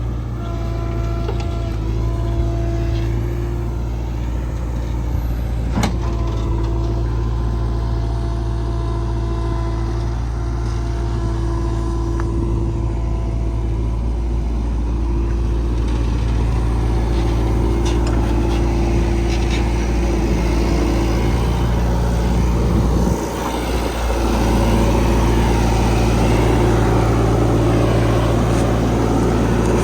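Heavy diesel machinery engine running steadily under work, with a single sharp knock about six seconds in. Near two-thirds through the engine dips briefly, then runs on somewhat louder.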